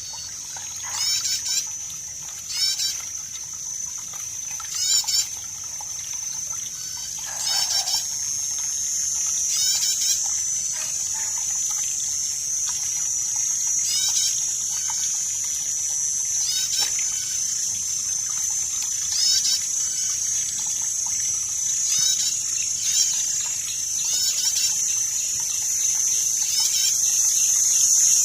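Outdoor night-time-style ambience: a steady high-pitched insect drone, with short chirping animal calls repeating every second or two, over faint trickling water.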